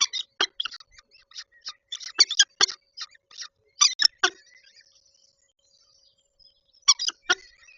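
Peregrine falcon giving a rapid series of short, harsh calls close to the microphone, bunched in the first four and a half seconds, then three more calls about seven seconds in.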